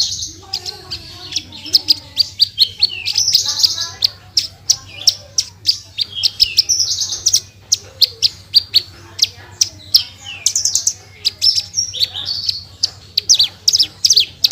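Branjangan (Horsfield's bush lark) singing a fast, unbroken song of sharp high chips and rapid trills, several notes a second, over a steady low hum.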